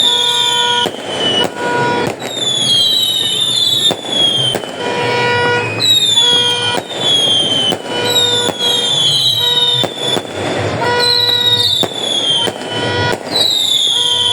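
Fireworks going off in quick succession: sharp bangs mixed with high whistling tones that fall in pitch, about one a second, over a steady crackle.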